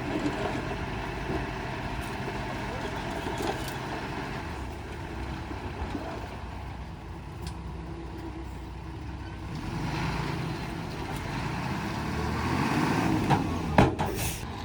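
Bulldozer diesel engine running steadily, swelling louder toward the end, with a couple of sharp metallic knocks near the end.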